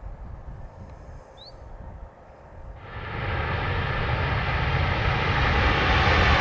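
Jet airliner's engines running. They come in suddenly about three seconds in after a faint low rumble, then grow steadily louder.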